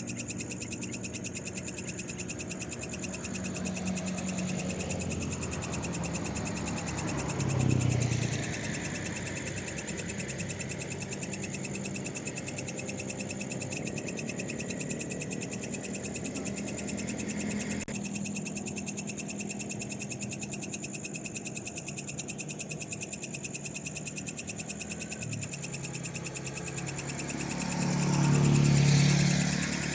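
Steady pulsing night chorus of frogs and other night animals. Two vehicles pass on the road, one briefly about eight seconds in and a louder one near the end, each a rumbling swell that rises and fades.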